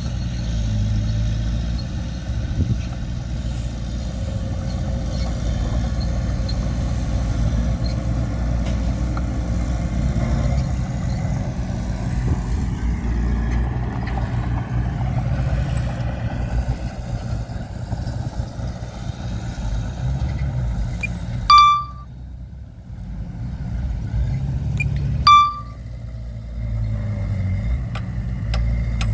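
Diesel engine of heavy earthmoving machinery running steadily with a low rumble. Two short, loud, high beeps sound about three and a half seconds apart near the end.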